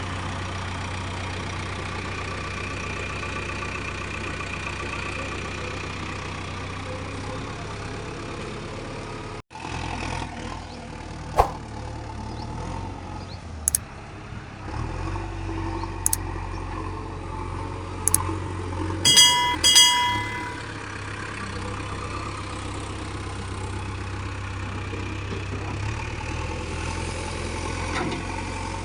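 Diesel engine of a JCB 3DX backhoe loader running steadily, with an abrupt cut about a third of the way in. It is followed by several sharp knocks and, about two-thirds in, two short high-pitched beeps.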